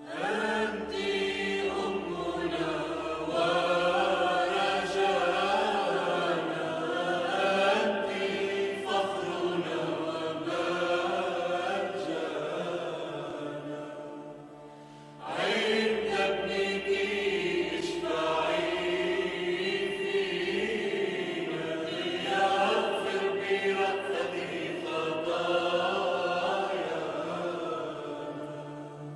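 Choir chanting a slow Arabic Christian hymn to the Virgin Mary over a steady sustained accompaniment. It comes in two long phrases, with a brief drop in level about halfway through.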